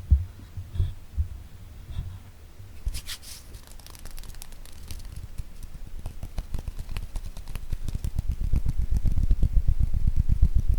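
Hand tapping for ASMR: a few soft thumps, a brief rustle about three seconds in, then rapid, continuous tapping that grows steadily louder.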